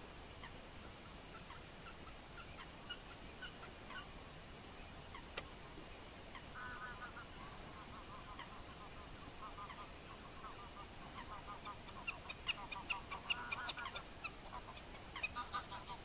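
Birds calling: scattered short calls, with a longer call about six and a half seconds in and quick runs of repeated calls about twelve to fourteen seconds in and again near the end.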